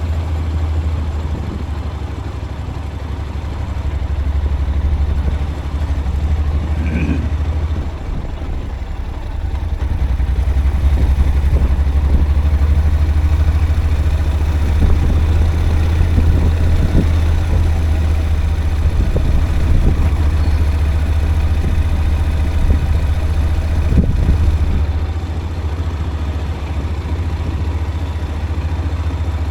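Steady low rumble of a vehicle travelling along a rough forest road, with scattered knocks and clatter.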